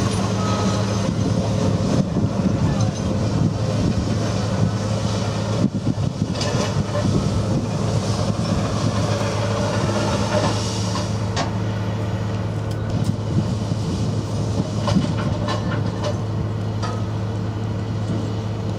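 Engine of a Type 94 amphibious mine-laying vehicle running steadily with a low hum, over a wash of mechanical noise and scattered knocks.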